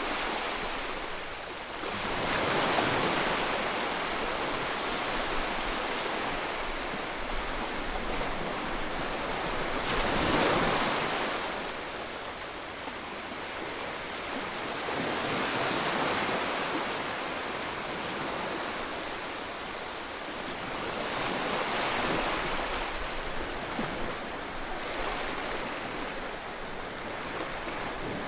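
Ocean waves breaking and washing ashore, the surf swelling in loudness every five or six seconds over a steady hiss.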